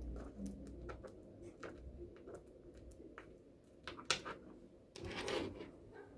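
Small magnetic balls clicking as they snap together and are set in place, in scattered faint clicks, the loudest about four seconds in, with a short rustle of balls shifting a little after five seconds.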